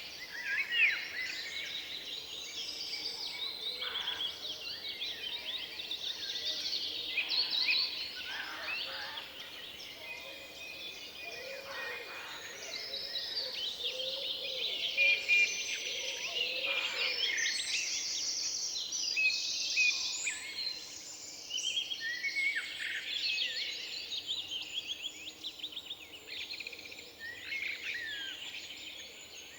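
Many songbirds singing at once, a dense chorus of overlapping chirps, whistles and trills that goes on without a break.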